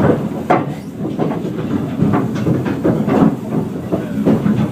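Narrow-gauge heritage train running along the line, with a steady rumble and irregular clicks and knocks of the wheels clattering over the rail joints.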